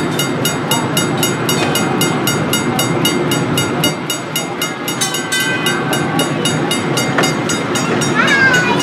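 Electric trolley running on rails, a steady rumble under a rapid, even clicking of about three or four a second, with short high squeals about halfway through and near the end.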